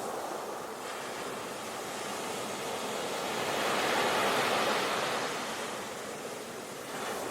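Ocean surf washing onto a beach: a steady rush of breaking waves that swells about four seconds in, eases off, then starts building again near the end.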